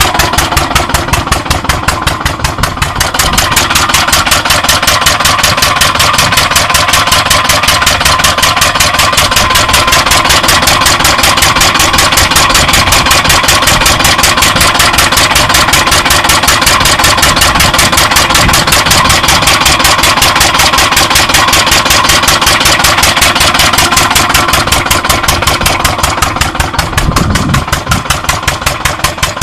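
Stationary farm engine running steadily with a rapid, even beat of exhaust pulses. It gets louder about three seconds in and drops back a little near the end.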